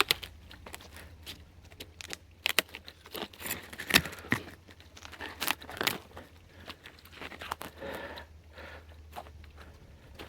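Small dry twigs and bark being snapped and torn by hand: irregular cracks and crinkly tearing, with the sharpest snap about four seconds in.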